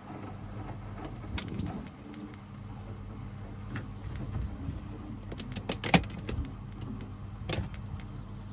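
Hoover DXOA610AHFN-80 front-loading washing machine in its wash phase: a steady motor hum as the drum turns, with scattered clinks and knocks from the tumbling load. The loudest knock comes just before 6 seconds in.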